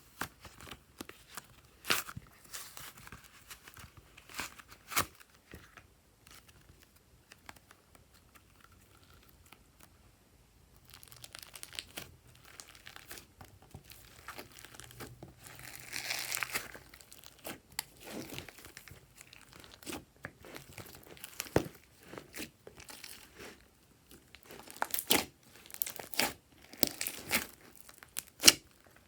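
Glossy slime being squished and pressed by hand, with crackling and popping from trapped air in scattered sharp clicks. It quiets for a few seconds about a third of the way in, then the clicks come denser and louder near the end.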